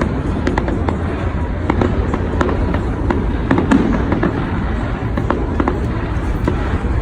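A large fireworks display going off continuously: a steady low rumble of bursts with dense crackling from many shells.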